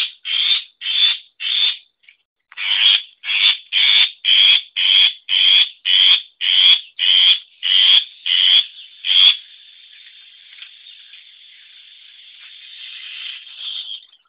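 Long-tailed shrike (pentet) calling: a run of about sixteen short, harsh, repeated notes at about two a second, with a brief pause after the first three. From about ten seconds in this gives way to a quieter, steady high chatter that swells near the end.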